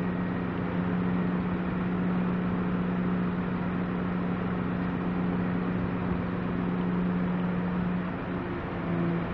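Steady mechanical hum of heavy machinery with a strong constant low drone; near the end the drone briefly dips and shifts lower in pitch before settling again.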